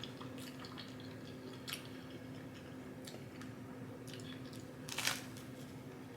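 Close-miked chewing and mouth sounds of someone eating, with a few small clicks; the sharpest comes a couple of seconds in and the loudest about five seconds in. A faint steady hum runs underneath.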